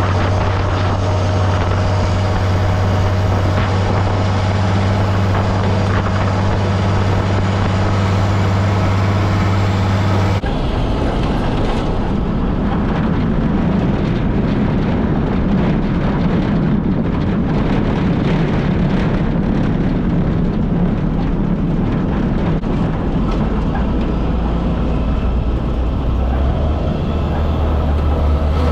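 International tractor engine running steadily with a low hum. About ten seconds in the sound changes abruptly to a rougher, noisier engine sound, and the steady hum returns near the end.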